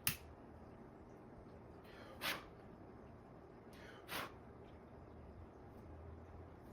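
Two short rasping noises about a second and a half apart, with a faint click just before them. These are handling sounds from working black electrical tape onto wire connectors.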